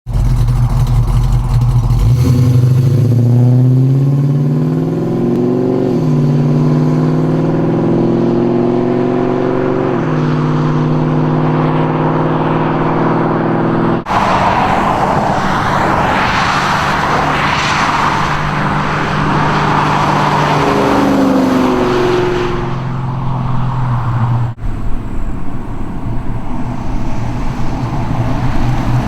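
1972 Chevelle's 396 big-block V8 with headers and dual exhaust accelerating through the automatic's gears: the engine pitch climbs, drops at a shift about six seconds in, climbs again and holds. It is followed by a louder rushing stretch of road and wind noise, then a low rumble near the end, with two abrupt breaks between stretches.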